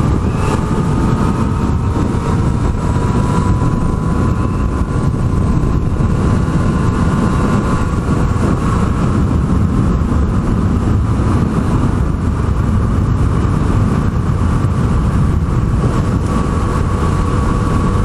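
Yamaha MT-09's three-cylinder engine running at a steady cruise, its note drifting slowly in pitch, under heavy wind rumble on the microphone.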